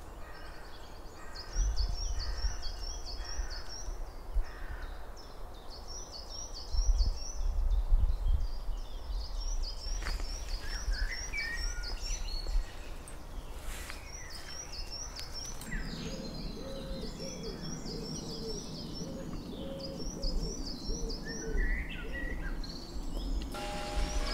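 Woodland birdsong: a small bird repeats short, high chirping phrases every few seconds, over low rumbles of wind on the microphone, loudest about two and seven seconds in.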